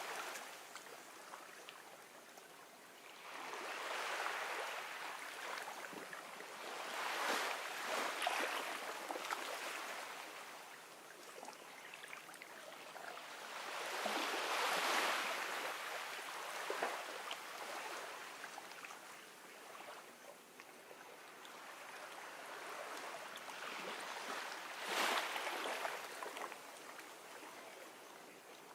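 Gentle ocean waves washing onto a beach, the surf swelling and fading in slow surges every few seconds, strongest about 15 and 25 seconds in.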